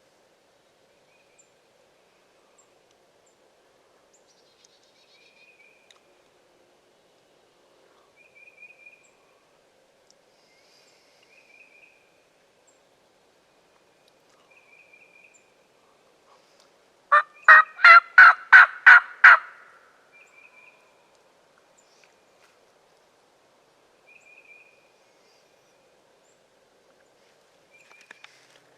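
A wild turkey gobbling loudly and close, one rapid rattling gobble of about eight notes lasting two seconds, about two-thirds of the way in. Faint short chirps repeat every few seconds throughout.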